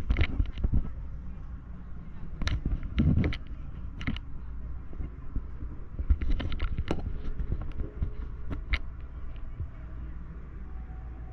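City street ambience: a steady low rumble of traffic with scattered sharp clicks and knocks and faint voices in the background.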